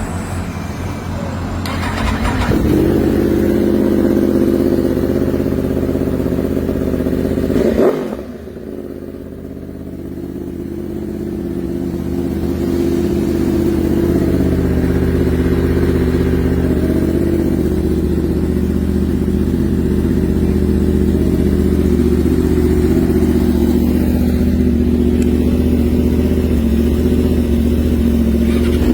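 Modified Yamaha YZF sportbike with an aftermarket exhaust, its engine running at a steady idle. It gets louder about two seconds in, drops off suddenly about eight seconds in, then builds back to a steady idle.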